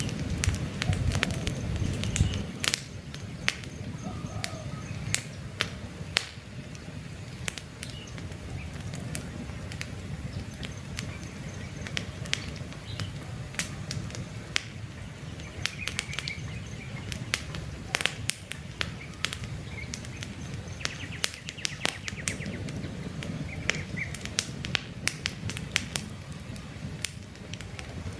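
Wood campfire crackling, with sharp irregular pops over a low steady rumble of burning. Small birds chirp faintly now and then.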